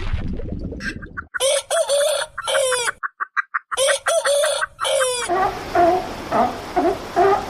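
Poultry calling: two long, rough calls with a fast stuttering run of notes between them, followed by a regular series of short clucks, about two or three a second.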